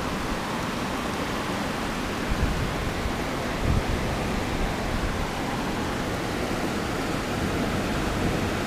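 Heavy thunderstorm rain pouring steadily, an even hiss, with a couple of brief low bumps about two and a half and four seconds in.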